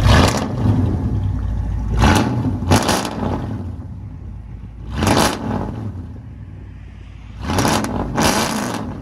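1998 Chevy K1500 Silverado's 5.7-litre V8 with long tube headers and true dual straight pipes, idling with a low rumble and blipped six times, each rev rising and falling quickly. The revs come in pairs and singles a couple of seconds apart.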